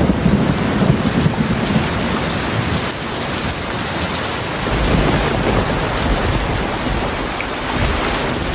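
Heavy rain falling steadily, with low rolling thunder rumbling underneath, swelling in the first second or so and again around five seconds in.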